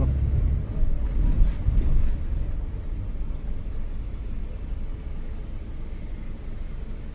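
Low, steady rumble of a vehicle on the move, with some wind on the microphone; a little louder in the first couple of seconds, then evening out.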